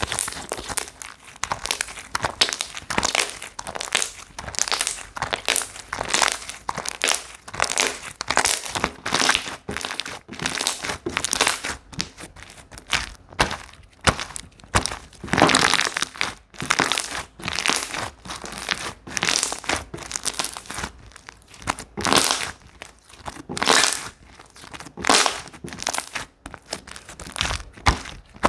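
Slime being kneaded and pressed by hand: an irregular run of short, noisy squishes, several a second.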